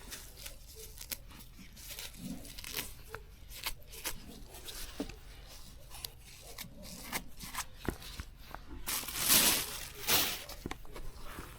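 Grass and weeds being pulled or torn up by hand: a run of small snaps and clicks, then a louder rasping tear about nine seconds in.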